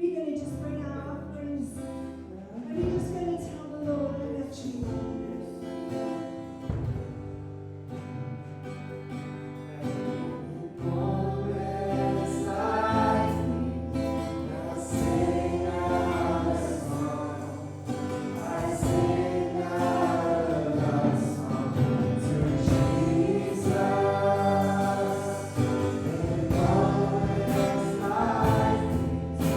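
Gospel worship song: several voices singing together over sustained bass and instrumental backing, growing louder about eleven seconds in.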